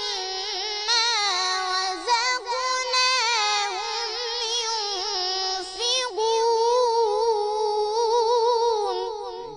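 A child's high voice chanting Quran recitation in melodic tajweed style, drawing out syllables in winding ornamented runs. From about six seconds in it holds one long wavering note that fades away near the end.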